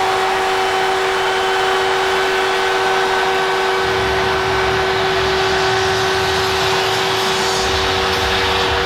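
Arena crowd cheering loudly over a steady, multi-tone goal horn, celebrating a game-winning home goal; a deeper rumble joins about four seconds in.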